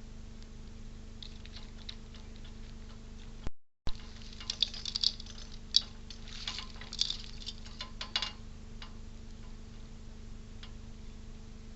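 Squirrel scrabbling and clicking at a bird feeder: a cluster of sharp little clicks and scratches for about four seconds, starting just after a momentary dropout, over a steady electrical hum from the camera.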